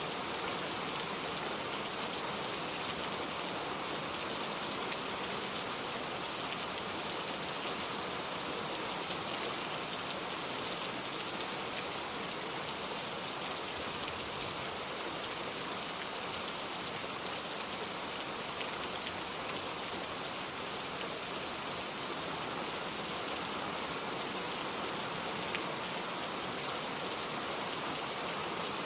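Steady rain falling: an even, unbroken hiss of dense drops with faint scattered ticks of single drops.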